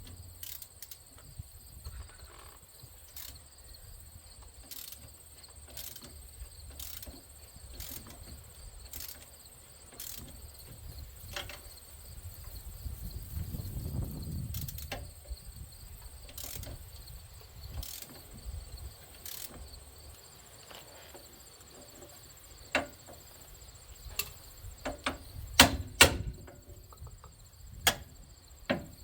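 Insects chirping steadily in a high, thin tone, with a few sharp knocks late on, the loudest a pair close together.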